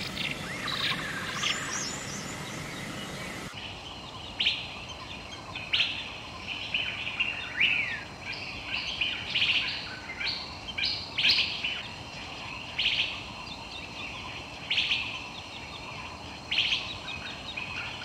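Birds chirping and calling: many short, repeated chirps with a few quick sweeping calls. The recording changes about three and a half seconds in.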